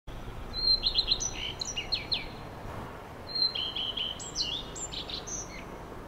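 A songbird singing two phrases of quick chirps and whistled notes, each about two seconds long, over a steady low background hiss.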